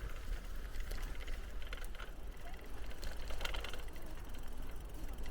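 Bicycle being ridden along a path: steady tyre and drivetrain noise with small clicks and rattles, under a heavy low rumble of wind on the microphone. There is a brief higher-pitched sound about three and a half seconds in.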